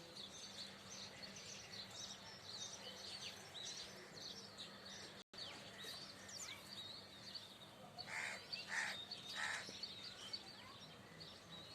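Garden birds chirping and twittering continuously in many short high calls. About eight seconds in, a larger bird gives three loud, harsh calls in quick succession.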